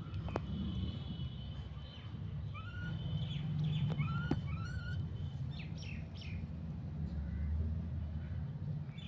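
Small birds chirping: a few short up-sliding calls followed by quicker higher chirps, over a steady low rumble.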